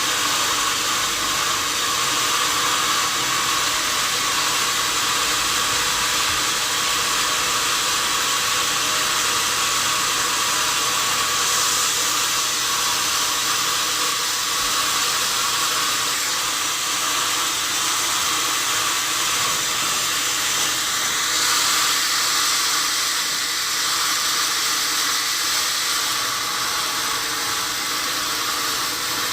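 Sawmill saw running steadily through a wadang log, a continuous loud hiss over a low machine hum. The hiss brightens a little about twenty seconds in.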